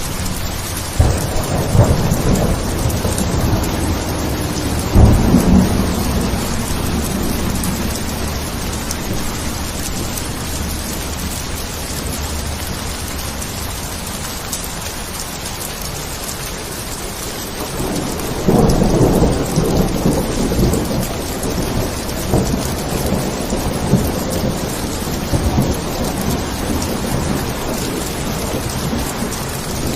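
Steady heavy rain falling, with thunder rolling twice: a crackling rumble in the first few seconds and another longer one starting about two-thirds of the way through.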